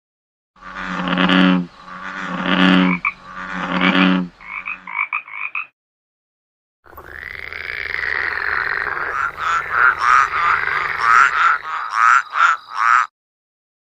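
Animal calls: three long, low calls of about a second each, then a quick run of short calls. After a pause of about a second comes a rougher series of calls that ends in about ten short, rapid ones.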